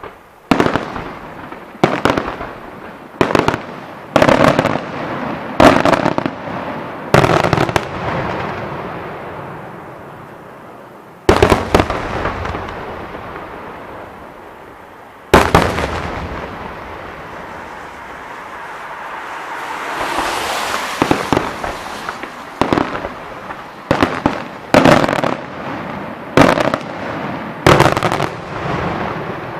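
Fireworks display: aerial shells bursting with loud sharp bangs, each followed by a rolling echo. The bangs come about once a second at first, then two lone bangs a few seconds apart. A hissing swell rises and falls in the middle, and a quicker run of bangs comes near the end.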